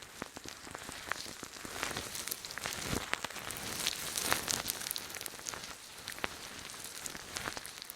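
Close-miked ASMR trigger sounds: dense crackling and clicking over a soft hiss, louder around the middle.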